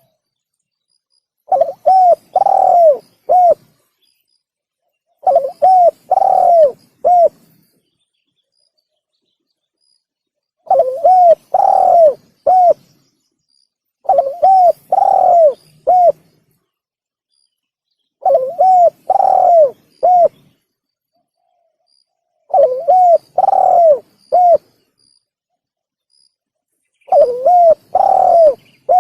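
Spotted dove (tekukur) cooing as a recorded hunting lure call. The phrase is a short run of three or four coos with a longer arched middle note, and it repeats about every four seconds, seven times, with dead silence between phrases.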